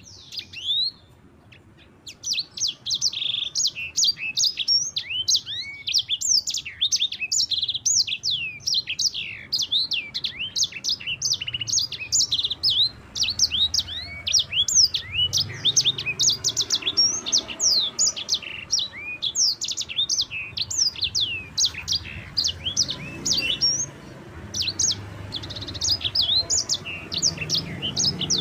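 Sanger songbird singing a long, fast rolling song of clear, high sweeping notes. It starts with a short phrase and a brief pause, then runs almost without a break.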